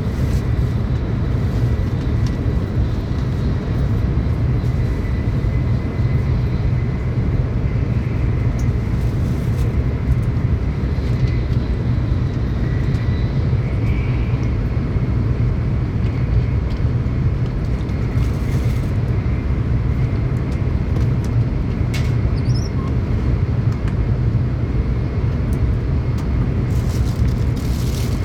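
Tokaido Shinkansen train running at speed, heard from inside the passenger car: a steady, dense low rumble of wheels on rail, with a faint thin whine above it. There is one brief click near the end.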